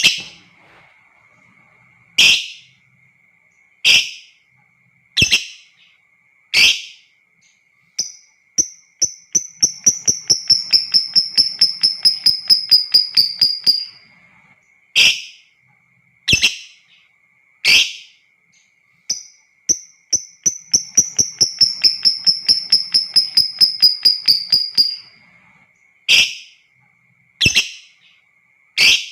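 Lovebird calling: single sharp shrieks about every second and a half, twice broken by a long rapid chattering trill of about five notes a second that lasts some six seconds, the long 'ngekek'. A faint steady high hum lies under it throughout.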